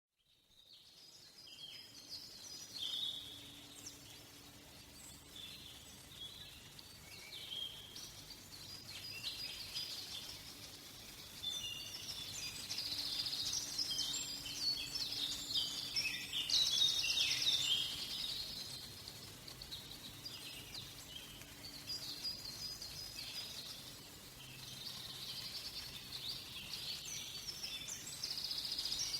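Forest ambience with several songbirds chirping and trilling, fading in at the start, the calls overlapping and busiest around the middle.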